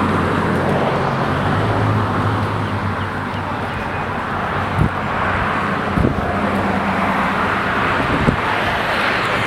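2003 Chevrolet Avalanche running, a low steady engine hum under a continuous rushing noise of wind and tyres, with a few short clicks about five, six and eight seconds in.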